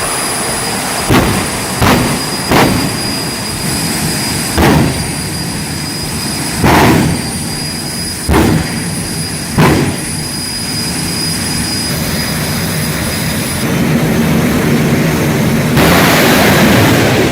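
Jet dragster's jet engine running with a steady rush and a high whine, broken by about seven sudden loud bursts over the first ten seconds. Near the end it swells louder into a broad roar.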